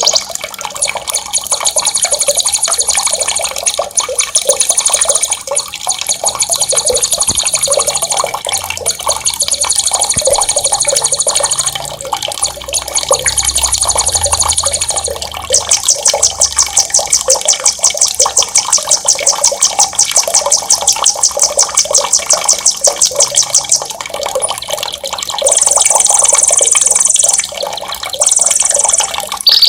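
Songbird singing fast, rolling high trills in a series of bursts, the longest about eight seconds, over the steady sound of running water.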